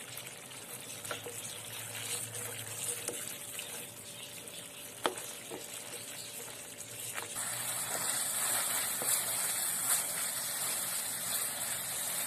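Grated apple and brown sugar sizzling in ghee in a steel pot while a wooden spoon stirs and scrapes it, with a few knocks of the spoon on the pot, the sharpest about five seconds in. The hiss grows louder about halfway through as the mixture is cooked down until the ghee separates.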